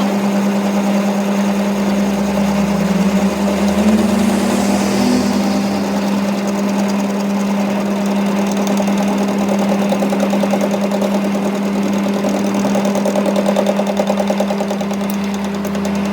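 A machine running steadily with a strong, even hum.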